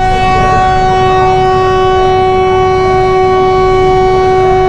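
Locomotive horn sounding one long, steady blast as the train is about to depart.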